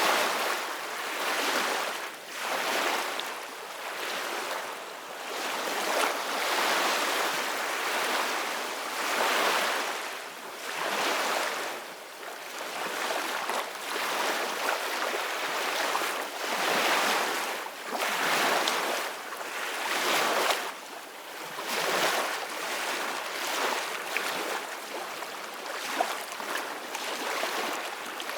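Ocean surf washing onto a beach: a steady rush of breaking waves that swells and eases every couple of seconds, with a couple of brief sharp ticks in the wash.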